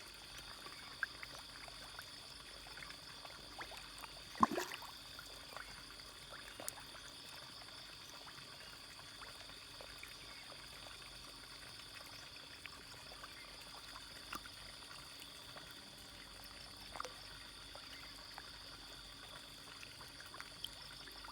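Fish feeding at the surface of a pond: faint trickling water with scattered small pops and clicks, and one sharper splash about four and a half seconds in.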